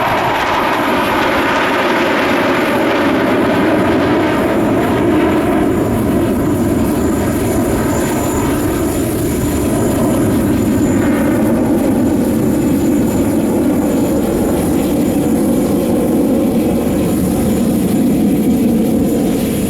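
Su-30SM fighter jets flying a display, their engines running loud and steady overhead. The pitch slides downward early on as the jets pass.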